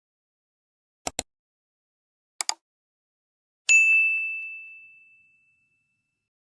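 Two pairs of short clicks, then a single bright bell-like ding that rings on one high tone and fades away over about a second.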